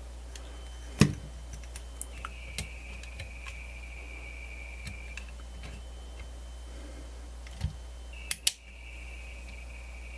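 Sharp clicks and light knocks from handling the Grundig FR-200 radio and its controls, with the loudest click about a second in and a quick pair near the end. Underneath runs a steady low hum and a faint high whine that switches back and forth between two pitches.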